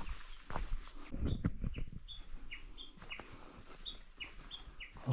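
A songbird singing a fast, repeated two-note phrase: a short high note followed by a falling one, about two phrases a second. A few low thuds come in the first two seconds.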